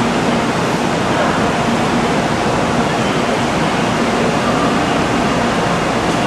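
Steady rushing noise with a faint low hum, like the cooling blowers and equipment of a Shinkansen train standing at a platform, with no change in level.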